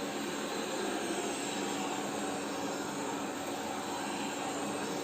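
Polaris PVCR 3200 IQ Home Aqua robot vacuum running: a steady, even rushing hum from its suction motor with a few held tones in it.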